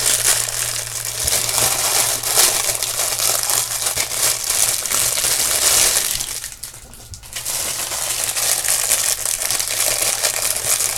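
Plastic jewelry packaging crinkling and rustling as it is handled and opened, with a short lull about six and a half seconds in.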